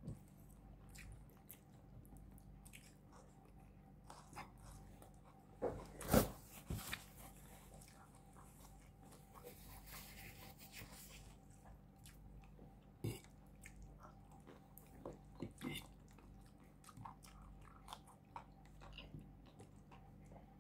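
A person chewing and biting food close to the microphone, with scattered sharp crunches. The loudest cluster of crunches comes about six seconds in, with more near thirteen and sixteen seconds.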